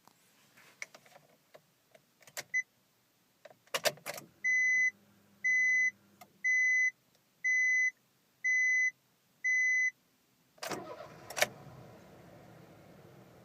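Clicks and knocks of someone settling into a car and the door shutting, then a dashboard warning chime beeping six times about a second apart after the ignition is switched on. Then the Honda Life's P07A 658cc three-cylinder engine starts with a short crank, catches with a brief flare of revs and settles into a steady idle.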